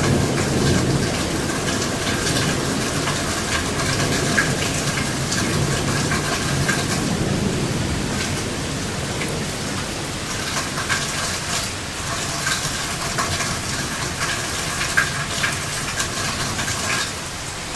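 Heavy rain falling steadily, with many small drop ticks, while a low thunder rumble dies away over the first several seconds.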